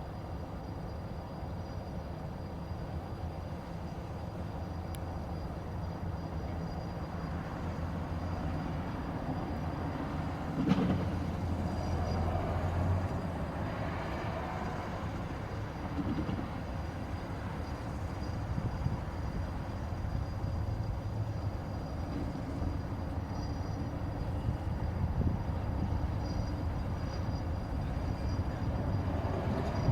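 Diesel locomotive running at low power while switching freight cars, with a steady low engine hum. A sharp metallic clank comes about eleven seconds in, followed by a few lighter knocks.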